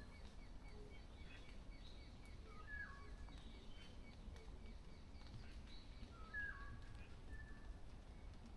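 Faint, distant forest birdsong: two short calls a few seconds apart, each stepping down in pitch, with a few fainter high notes, over a steady low rumble.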